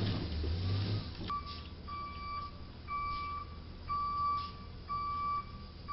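Electronic beeping: one steady tone repeating about once a second, each beep about half a second long, five or six in all. It starts about a second in, as a low rumbling noise dies away.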